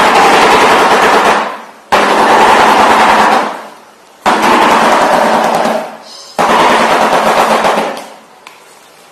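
Shoebill stork clattering its bill: a rapid, loud rattle like a heavy machine gun, in four bouts that each start abruptly and die away after about a second and a half.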